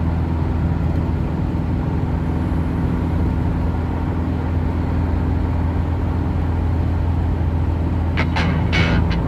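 Steady low engine and road noise of a vehicle moving in traffic, with a constant drone. Near the end a few short, sharp, brighter sounds come in.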